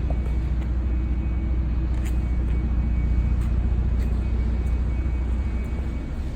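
Toyota Supra's 2JZ-GTE twin-turbo straight-six engine running at a steady, even speed, with a low rumble and no revving.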